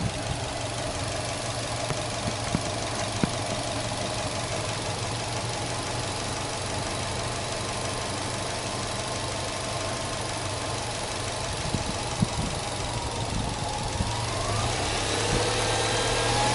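Subaru Legacy 2.0GT Spec B's turbocharged EJ20 flat-four engine idling steadily with the hood open. Near the end the pitch begins to rise and the sound grows louder as the engine speed picks up.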